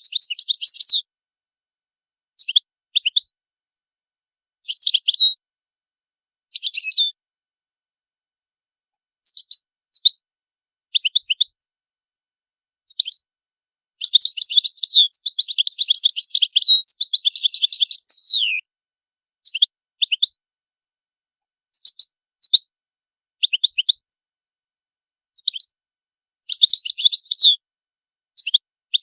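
European goldfinch singing: short bursts of quick twittering notes and trills with silent gaps between, and one longer run of song about halfway through that ends in a falling note.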